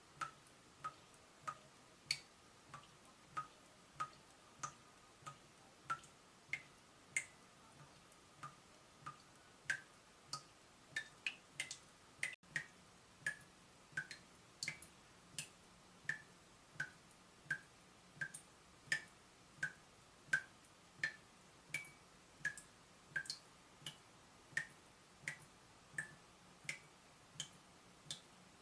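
Water dripping from a leaking tap: single drops falling one after another at a slightly uneven pace of about one and a half a second, each a short, sharp drip.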